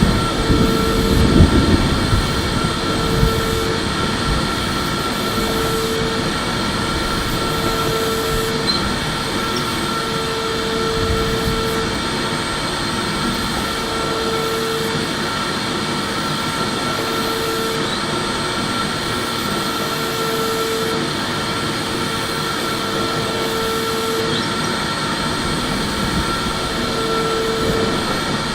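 Electric vacuum cleaner running steadily: an even rushing whir with a constant high whine and a lower hum that comes and goes every second or two.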